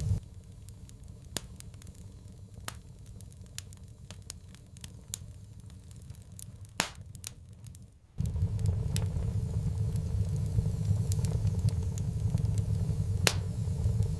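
Fire crackling in a fireplace, with scattered sharp pops, one of the loudest about seven seconds in. A low steady rumble under the crackle cuts out at the start and comes back suddenly about eight seconds in.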